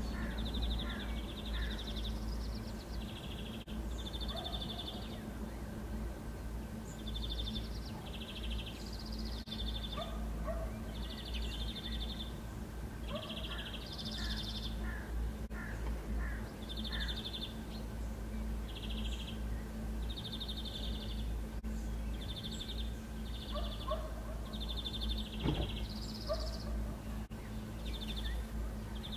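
Birds chirping in short trills, one every second or two, over a steady low hum and rumble.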